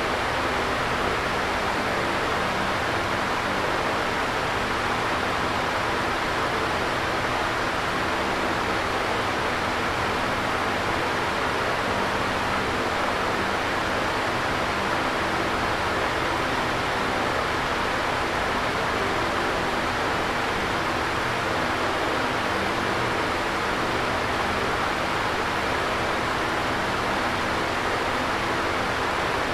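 Electric fan running steadily: an even whooshing rush of air, with a faint low hum from the motor under it.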